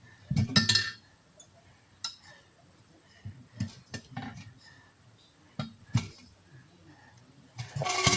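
Metal tools clinking and clanking against a wheel rim while a tire is being worked off it by hand: a loud cluster of clanks about half a second in, a handful of single sharp clinks spread through, and another run of clanks near the end.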